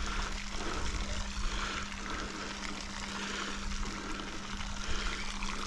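A steady mechanical drone with a constant hum, over a wash of moving water.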